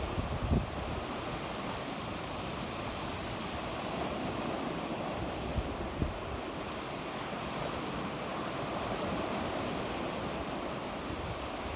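Sea waves washing steadily onto the shore, with wind rumbling on the microphone in a few short gusts, one about half a second in and another around the middle.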